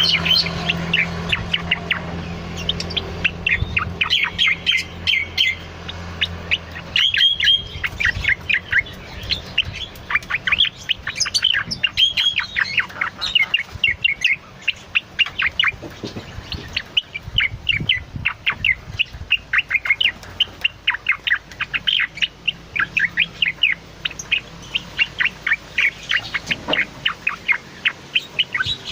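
Cucak loreng singing busily: a long, unbroken string of quick, sharp chirping notes with short fast runs.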